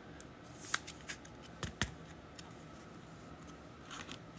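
Trading cards being handled and slid against one another: a few light, sharp clicks and a soft rustle of card stock.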